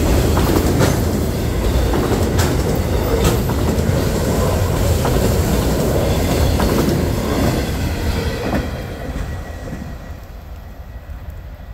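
Freight train cars rolling past, steel wheels clicking over rail joints with a loud rumble that fades away about eight and a half seconds in.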